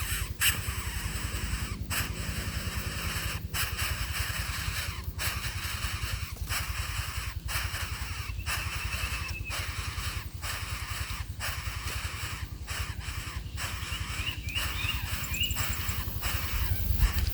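A few short bird calls over a steady hiss and low rumble.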